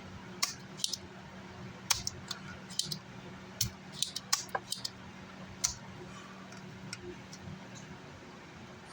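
Irregular sharp clicks and taps of small metal hand tools working on an amplifier circuit board during desoldering, about ten in the first six seconds, over a steady low hum.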